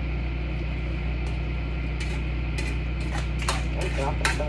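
A steady low hum of a running kitchen appliance, with a run of light clicks and knocks from cookware being handled in the second half, the sharpest near the end.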